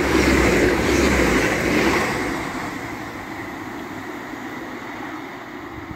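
Hull Trains Class 802 bi-mode train passing at speed on diesel power: a loud rush of wheels on rail and underfloor engines, which dies away from about two seconds in to a quieter steady rumble.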